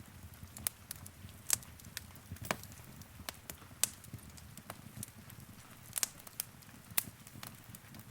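Wood fire crackling in a fireplace: irregular sharp pops and snaps, about a dozen, over a low steady rumble of burning.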